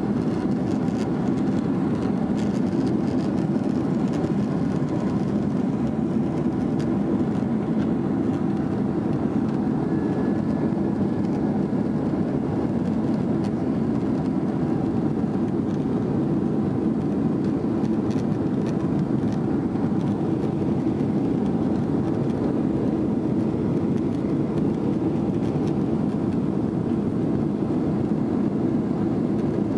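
Steady jet engine and cabin noise inside a Boeing 767 airliner, an even rumble that holds at one level throughout.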